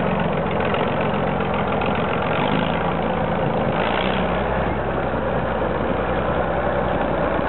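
ZIL-131 truck's YaMZ-236 V6 diesel engine idling steadily, with a short hiss about four seconds in.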